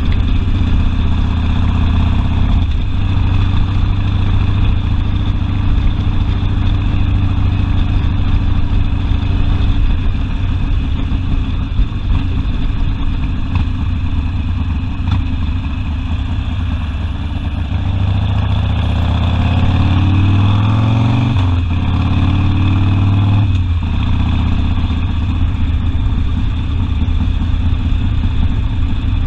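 Harley-Davidson Sportster V-twin engine running while riding, heard from the saddle. About two-thirds of the way through it revs up twice in quick succession, each rise cut off by a gear change.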